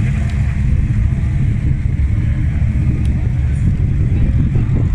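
Ford Mustangs rolling past at low speed, their engines running with a steady, deep low rumble.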